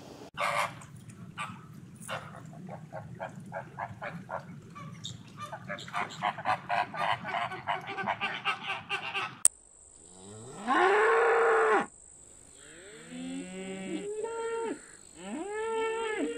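Cows mooing: one long, loud moo a little after the middle, then several shorter moos that rise and fall in pitch. Before them, for the first half or more, comes a quickening run of short, sharp animal calls.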